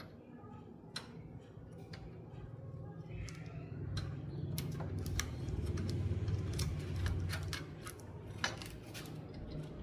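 Scattered light clicks and taps, irregular, over a low steady hum that grows louder midway.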